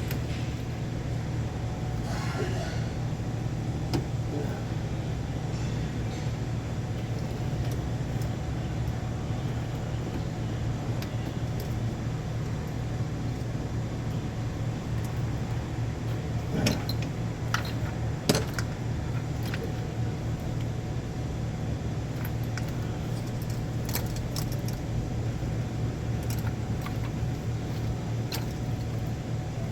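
Metal tools and parts clinking now and then over a steady low hum, with two sharper clanks a little past the middle.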